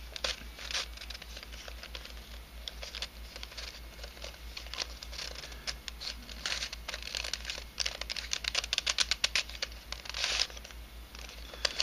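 3D-printed nylon helicopter-cube twisty puzzle being turned by hand: its pieces click and scrape against each other, with a quick run of rapid clicks through the middle.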